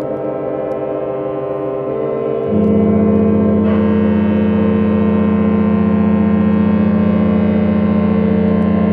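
Several ship horns blowing long, overlapping blasts at different pitches. A deeper horn comes in about two and a half seconds in and holds steadily through the rest.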